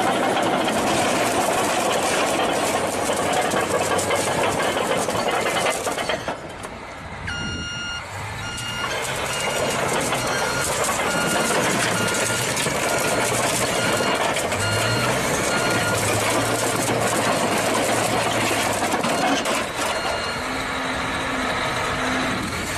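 Vehicle road noise, a steady rumble and hiss, with a run of short electronic beeps repeating for several seconds after a brief lull about a third of the way in.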